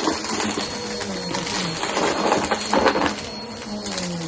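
Vacuum cleaner running over carpet and sucking up crispy cereal, which crackles and rattles as it goes up, loudest around two to three seconds in; under it the motor hums with a pitch that wavers.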